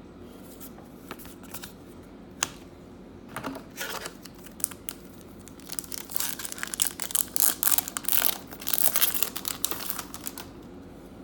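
Trading-card pack wrapper being handled and torn open. A few scattered light clicks come first, then several seconds of dense crinkling and tearing from about six to ten seconds in.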